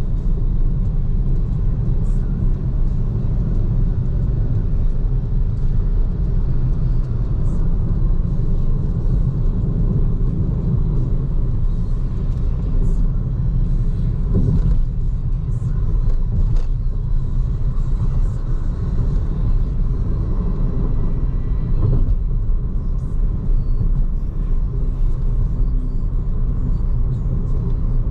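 Steady low rumble of a BYD Seagull electric car on the move: road and tyre noise with no engine note, plus a few faint ticks.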